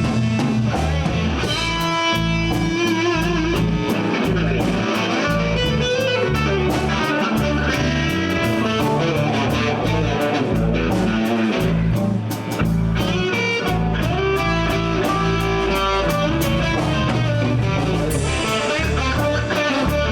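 Live blues band playing an instrumental breakdown: electric guitar lines over bass and a steady drum-kit beat, with a brief dip in level about twelve seconds in.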